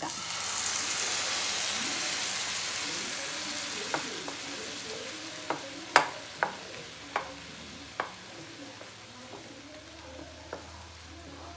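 Tomato purée poured into a hot pan of garlic, onion and green capsicum frying in olive oil, sizzling loudly at first and dying down over several seconds. Stirring follows, with about seven sharp knocks of the utensil against the pan.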